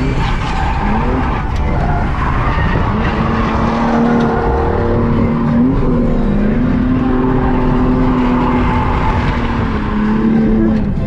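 Ford AU Falcon engine held at high revs in locked first gear while the tyres skid through a drift. The engine note holds steady, dipping and rising again a few times.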